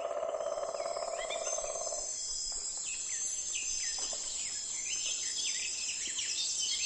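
Ducklings peeping: a scatter of short, high, falling peeps, over a steady high drone of insects. A lower buzz stops about two seconds in.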